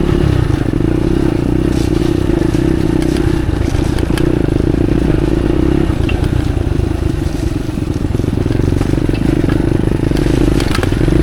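Motorcycle engine running at low, fairly steady revs while ridden slowly over a rough, muddy track, with scattered clicks and clatter from the bike.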